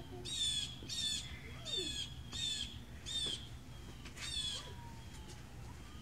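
A bird giving a run of short, harsh calls, six in quick succession that stop about four and a half seconds in.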